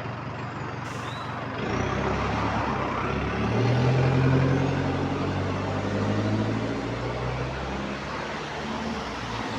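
London bus's diesel engine running under power, with the exhaust leak the spotter draws attention to. Its note builds about a second and a half in, is loudest around four seconds, then eases off.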